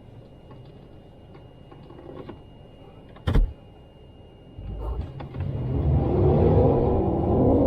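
A vehicle engine idles quietly, then a single sharp thump sounds. About a second later the engine revs up and runs hard at high revs, with its pitch rising and wavering, as the 2015 Jeep Wrangler's 3.6-litre V6 takes a run at an icy, snow-covered hill.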